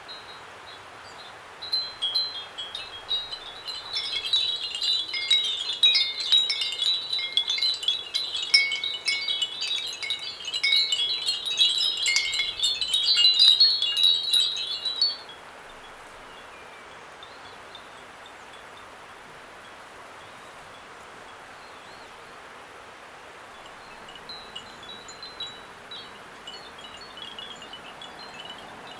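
Many small handmade ceramic wind bells (fūrin) ringing together in the breeze, a dense jingle of high, clear tones. The ringing stops abruptly about halfway through, and a few faint rings return near the end.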